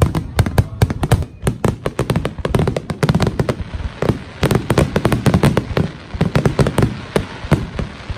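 Aerial fireworks shells bursting in a dense, continuous barrage: a rapid run of sharp bangs and booms, several a second.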